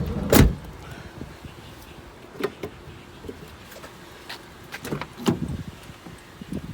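A heavy thump about half a second in, followed by scattered lighter knocks and clicks: someone moving about and handling fittings inside a minivan's cabin.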